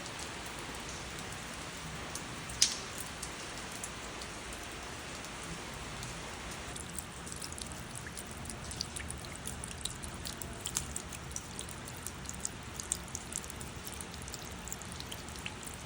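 Steady rain hiss with one sharp drop striking close by about two and a half seconds in; from about seven seconds the hiss changes and separate raindrops tick and patter on a surface.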